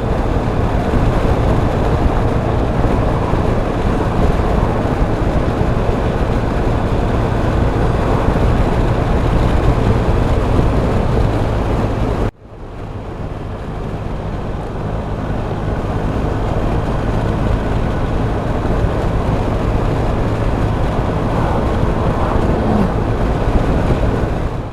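Motorcycle riding along with a steady engine hum under heavy wind noise. The sound drops out abruptly about halfway through and then builds back to the same level.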